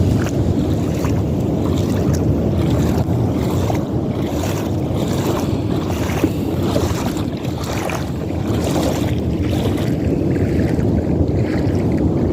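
Steady wind rumbling on the microphone, with waves washing onto the beach at high tide.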